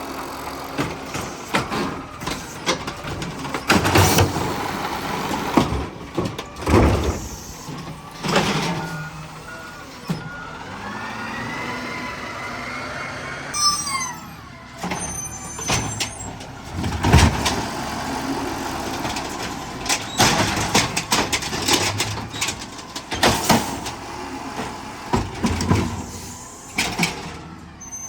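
Garbage truck at work: its diesel engine runs under a series of loud bangs and clanks, with a rising hydraulic whine about halfway through.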